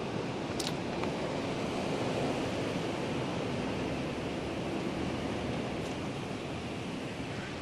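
Strong storm wind blowing, a steady rush of noise that swells a little a couple of seconds in, with one brief sharp click near the start.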